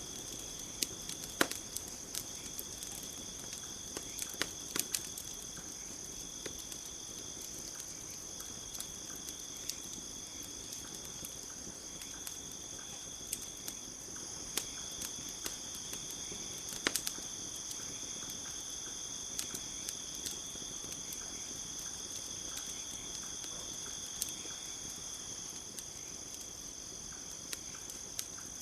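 Steady chorus of crickets chirping, with a campfire crackling underneath: irregular sharp pops scattered throughout, a cluster of them in the first few seconds and another near the middle.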